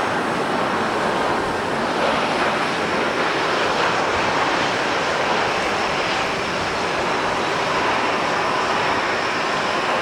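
Airliner engines running: a loud, steady rushing noise that holds even throughout, with faint steady tones coming in near the end.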